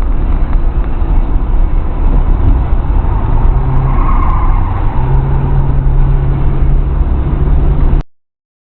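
1996 Ford Thunderbird on the move, engine running under way with road and tyre noise. The engine note rises a little partway through. The sound cuts off abruptly near the end.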